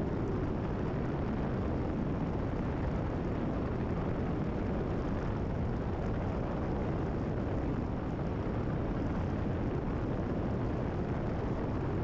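Steady drone of a Cessna 172RG's piston engine and propeller, heard inside the cabin.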